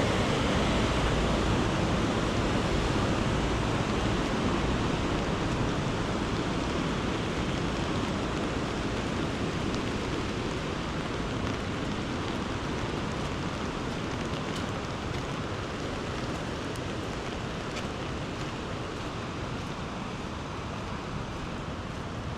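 Floodwater from a swollen river rushing in a steady roar-like hiss that slowly fades. Faint scattered ticks sound over it.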